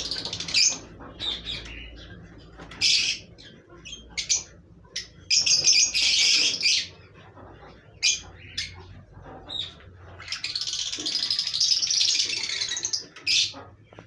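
Pet birds chirping and squawking in short, sharp calls, with a few longer stretches of harsh chattering, the longest near the end.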